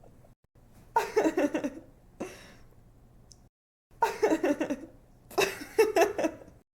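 A young woman laughing in several bouts of quick, breathy giggles with short pauses between them. The laughter cuts off abruptly near the end.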